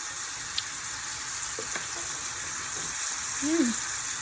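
Salmon in an orange glaze sauce sizzling steadily in a pan on high heat as the sauce reduces.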